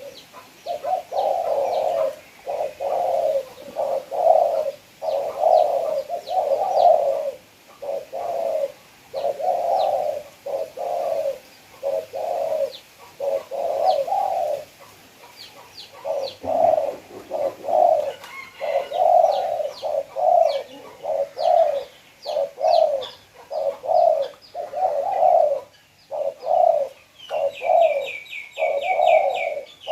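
Spotted dove cooing over and over in a steady series of low coos, with faint chirps of small birds above it and a quick trill near the end.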